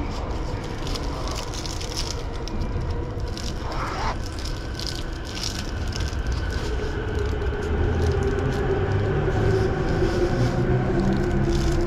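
Electric commuter train pulling away from a station, heard inside the car: a low running rumble that grows louder, with an electric motor whine coming in about halfway as it picks up speed.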